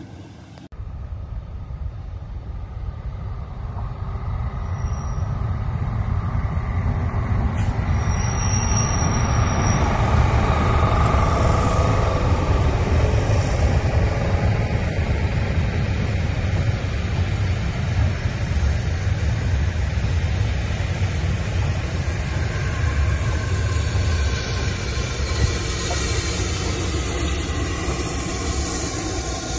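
A passenger train passes close by: a steady rumble of wheels on the rails and coaches going by. It builds over the first ten seconds and holds to the end.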